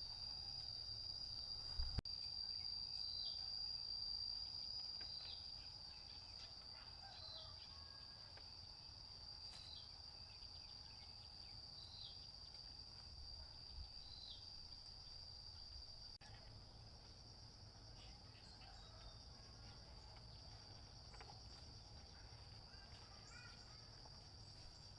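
Faint, steady high-pitched chirring of crickets or other insects, with a short falling chirp repeating about every two seconds through the first half and a single sharp click about two seconds in.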